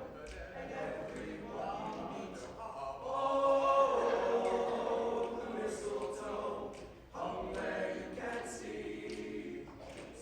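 High school choir singing held, sustained phrases, with a short break about seven seconds in before the next phrase begins.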